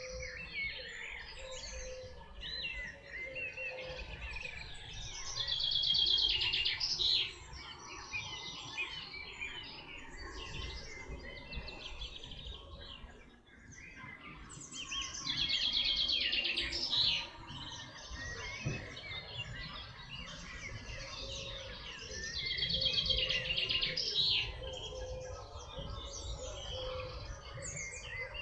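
Chorus of songbirds in a forest, with one bird repeating a loud, rapidly trilled phrase of about two and a half seconds three times, roughly every eight seconds.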